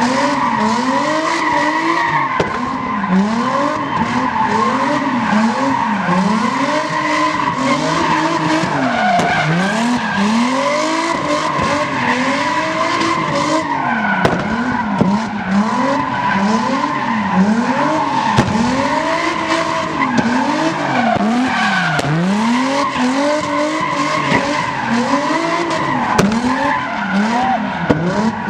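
A vehicle doing a burnout. Its tires squeal without a break while the engine revs up and down about once a second.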